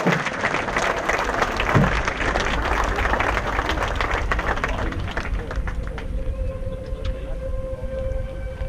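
Fireworks crackling densely, with one low boom about two seconds in. The crackle dies away after about five seconds, and a steady held note from the show's music carries on.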